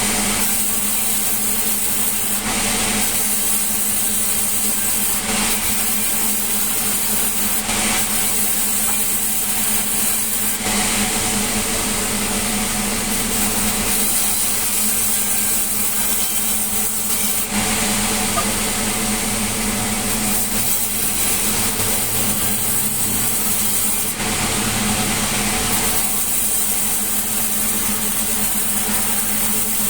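Sawmill saw running continuously and cutting through wood, a steady hum under a rasping cutting noise that changes every few seconds.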